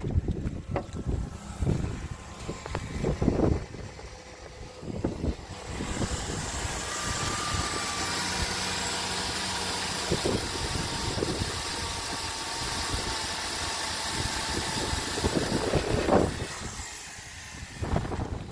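Footsteps on dirt and gravel. About six seconds in, the 2008 Chevy Impala's 3.5-litre V6 is heard running steadily at idle with the hood open, with a faint whine over it. Near the end it gives way to footsteps again.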